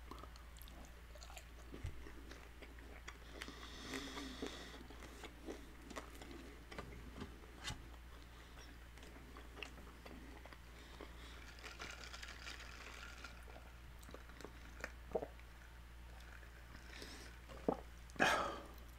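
Close-miked chewing of a crunchy birria taco: soft crunches and wet mouth clicks and smacks, with a sharper mouth sound near the end.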